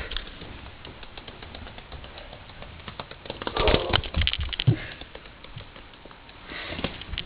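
Cockatiel's beak pecking and nibbling close to the microphone: scattered light clicks and taps, with a louder flurry of knocks and scrapes a few seconds in.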